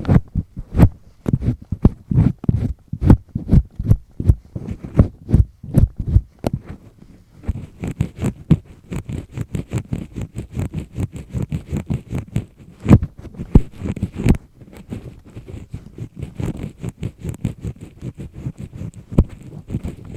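Double-disc earpick scraping firmly in an ear canal, picked up very close: rubbing, scratchy strokes at about two a second, turning into quicker, lighter scratching about seven seconds in.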